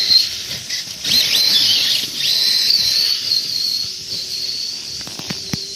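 Radio-controlled short course trucks racing, their electric motors giving a high-pitched whine that rises and falls as the throttle changes. A couple of sharp knocks about five seconds in.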